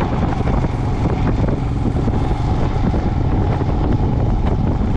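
Steady wind rush on the microphone with road and engine noise from a vehicle travelling along the highway.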